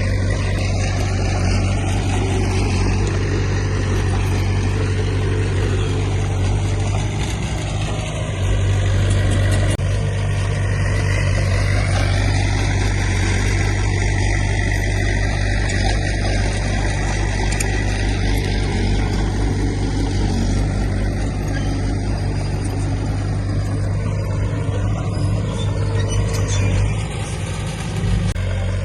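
Heavy construction machine's diesel engine running steadily with a strong low drone. Fainter higher sounds slowly rise and fall in pitch over it.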